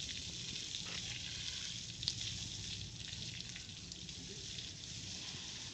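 Steady hissing noise over a low hum, with a single sharp click about two seconds in.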